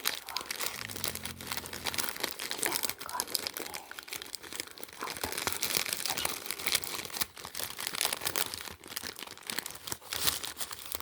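Packaging being handled and unwrapped close to the microphone: dense, irregular crinkling and crackling with some tearing.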